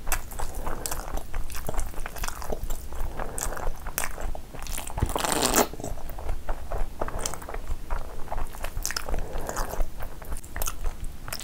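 Close-miked eating of mutton curry and rice: wet chewing with many sharp mouth clicks and smacks, and a longer, louder wet sound about five seconds in.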